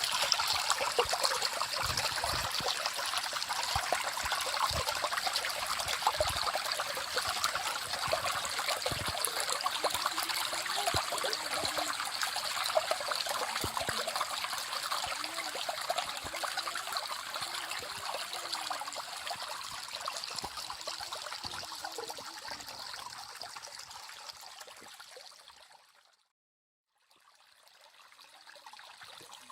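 Stream water running steadily. Near the end it fades out to a moment of silence, then comes back quieter.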